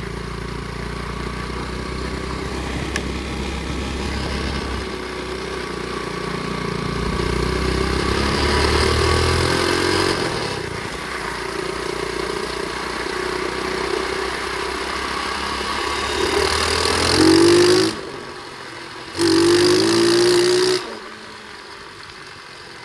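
Flywing pit bike's small single-cylinder engine running as it is ridden, the revs rising and falling with the throttle. Near the end it revs up hard twice, cutting off sharply between and after, then settles back to a quieter, lower running sound.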